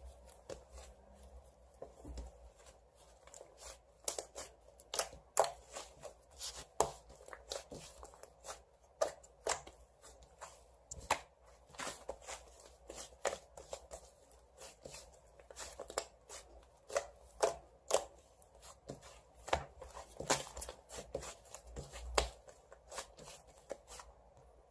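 Irregular series of short, sharp taps and knocks, sometimes several a second, in a small room.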